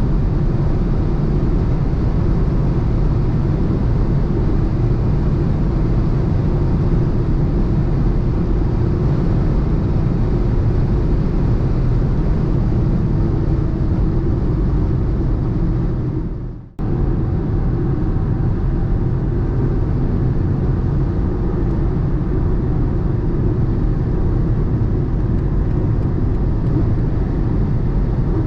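BMW 118i (F40) with a three-cylinder petrol engine driving fast on the motorway: a steady mix of engine, tyre and wind noise. About two-thirds of the way through it dips out briefly and comes back.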